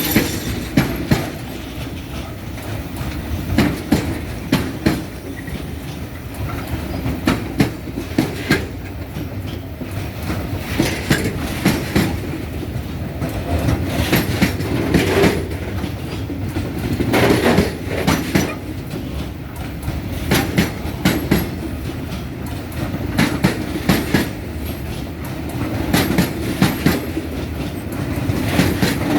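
A freight train loaded with military equipment rolling slowly past, its wheels clacking over the rail joints in clusters of beats about every three seconds over a steady rumble.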